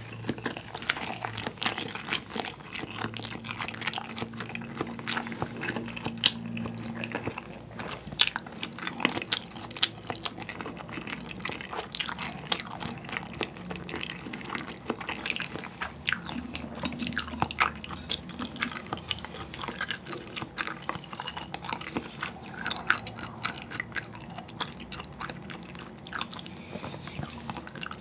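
Close-miked chewing of a mouthful of rice and soy-marinated salmon, with steady, fine wet mouth clicks and smacks. The soy brine has made the salmon flesh firm and chewy.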